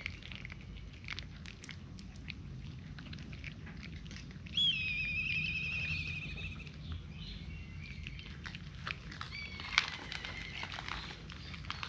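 Cats crunching dry kibble: many small irregular crunching clicks. A high, wavering call of about a second and a half comes about four and a half seconds in, and a shorter one near ten seconds.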